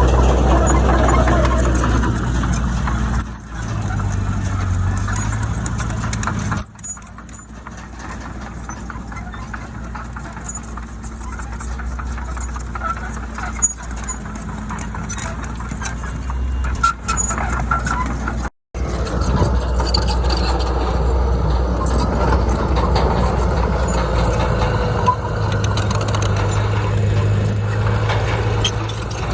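Heavy diesel construction machinery running at work: a deep, steady engine drone, broken off abruptly twice, about seven and about eighteen seconds in.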